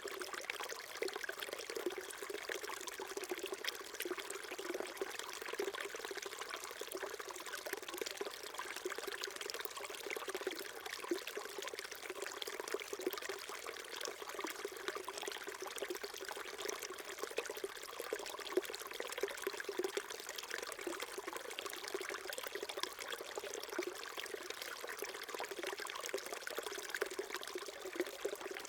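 Small mountain stream burbling and trickling steadily over rocks, a constant gurgle with no change.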